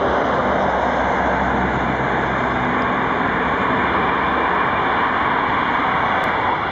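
Train running at the railyard: a loud, steady rushing noise with a low engine hum beneath it.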